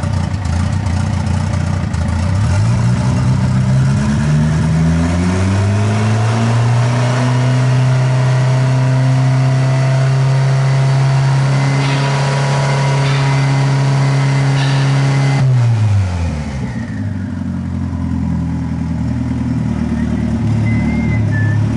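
Turbocharged VW Gol four-cylinder engine running with the hood open. It is brought up slowly from idle to a raised, steady speed and held there for several seconds, then let fall back to an uneven idle about two-thirds of the way through.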